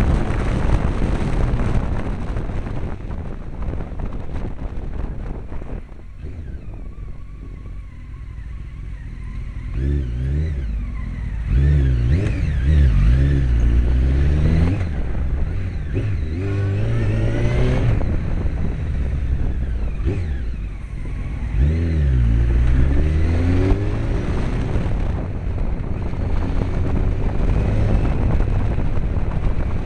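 Honda CBR900RR Fireblade's inline-four engine heard from on the bike, revving up and dropping back in repeated short bursts of throttle through the second half. Wind noise on the microphone in the first few seconds, then the sound dips to a lower engine note before the revving starts.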